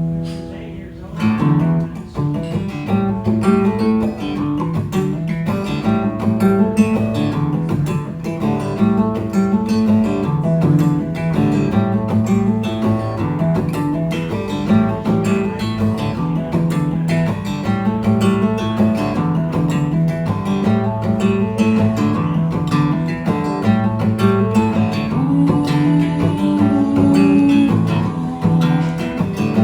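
Acoustic guitar strummed in a steady rhythm, cycling through a repeating chord pattern as a song's instrumental intro. Late on, a single held note bends upward over the chords.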